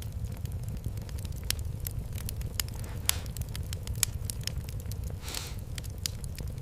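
Fireplace fire crackling, with sharp pops scattered irregularly over a steady low rumble; a brief hiss swells a little past five seconds in.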